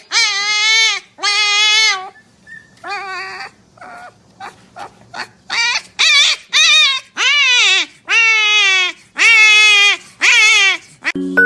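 An animal giving loud, wavering cries over and over, about a dozen in quick succession, each under a second long and dropping in pitch at the end. A few soft clicks come in a short pause partway through.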